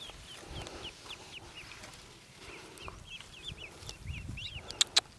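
Many newly hatched ducklings peeping, a continuous stream of short high chirps. A few sharp clicks come near the end.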